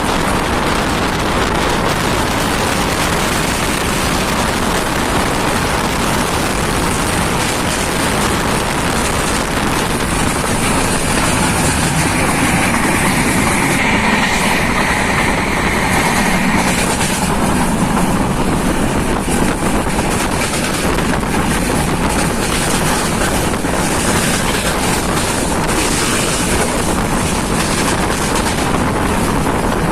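Passenger train running at speed, heard from on board: a steady rumble of wheels on the track with wind rushing past the microphone. A faint high tone rises over it for a few seconds mid-way.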